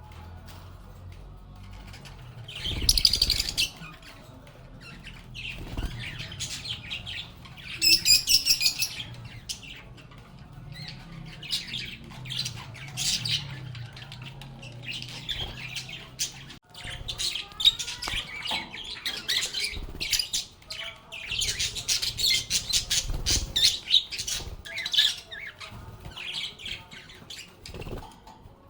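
Pet lovebirds chirping and squawking in irregular, overlapping bouts of short, high-pitched calls, with loud flurries about three and eight seconds in and a busy stretch of chatter near the end.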